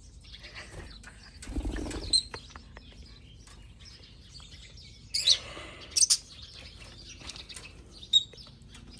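Birds chirping, with three short, sharp, loud calls about five, six and eight seconds in. There is a brief low rustle near two seconds in.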